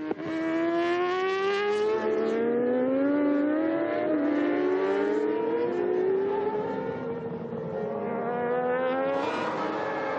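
Several racing motorcycle engines at high revs, overlapping one another, their pitch rising through the gears and falling away as they pass.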